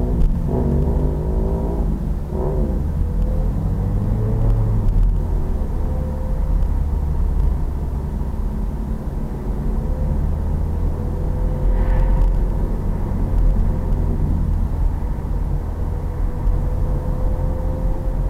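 Pit bike's small single-cylinder engine running under way over a heavy low rumble. Its pitch shifts up and down over the first few seconds, then holds fairly steady with a slow rise.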